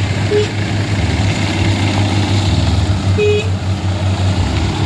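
Engines of trucks and other vehicles running steadily in dense, slow-moving traffic, with two short high beeps: one just after the start, one about three seconds in.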